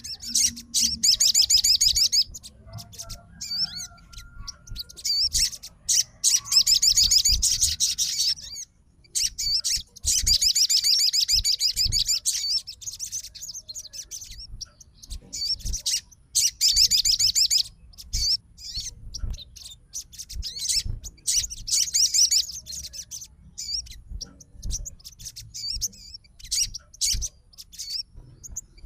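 Sogon songbird singing in rapid, high-pitched chattering bouts of a second or two, with shorter calls in between.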